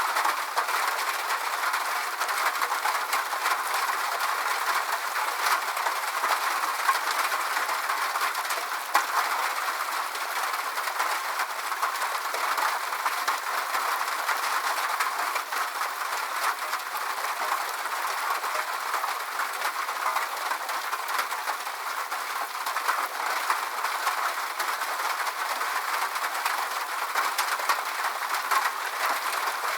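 Steady rain falling, a dense even patter with no low rumble.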